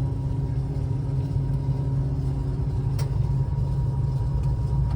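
Tower crane hoist drive running steadily under load as it lifts formwork, a low hum with a thin steady whine above it, over a low rumble of strong wind. A single click about three seconds in.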